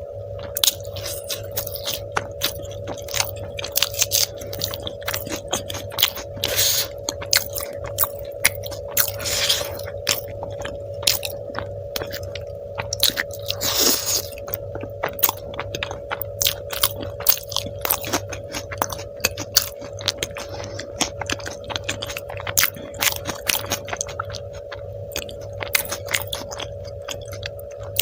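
Close-miked mouth sounds of a person eating: chewing and biting with frequent wet smacks and clicks, over a steady hum.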